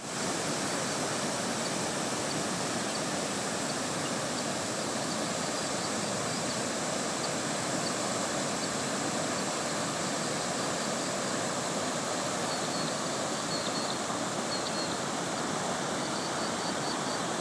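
The Hodgkinson River in flood after heavy rain: a steady, even rush of fast floodwater.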